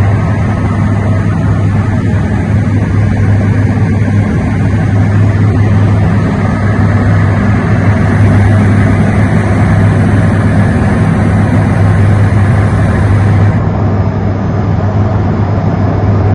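Light aircraft engine and propeller heard from inside the cockpit in steady cruise: a loud, even drone with a strong low hum.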